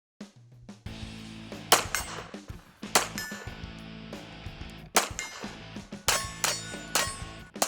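Steel targets clanging and ringing from a string of pistol hits, about ten sharp strikes at uneven spacing, over background music.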